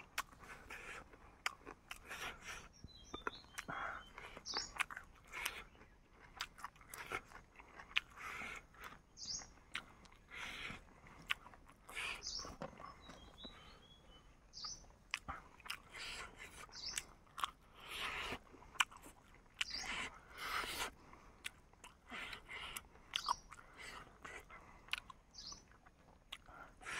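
Close-up chewing and crunching of cooked chicken, the head, with irregular crunches of bone between softer chewing. A small bird gives a short high chirp every few seconds.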